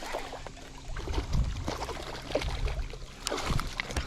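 Water splashing and dribbling from a hooked bass being landed on a jig, with scattered knocks and rustles.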